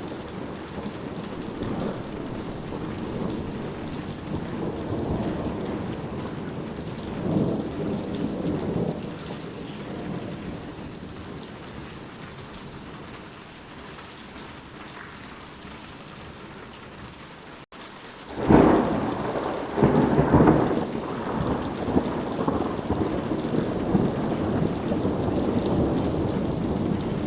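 Steady heavy rain with distant rolling thunder; about two-thirds of the way through a loud thunderclap rumbles for a few seconds, then the rain continues.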